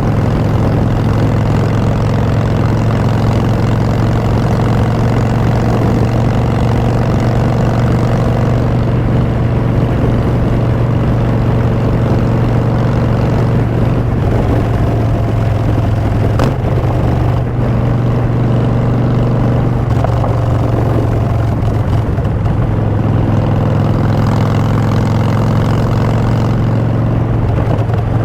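2016 Harley-Davidson Street Bob's Twin Cam 103 V-twin engine running through Vance & Hines Short Shots exhaust pipes during a ride, holding a steady pitch.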